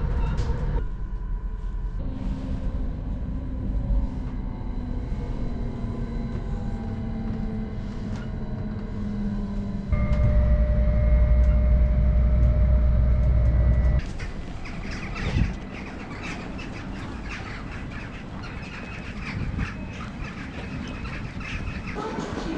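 Train running, in several abruptly cut sections: a motor whine slides slowly down in pitch, then a louder deep rumble sets in for a few seconds, then a quieter stretch with scattered clicks.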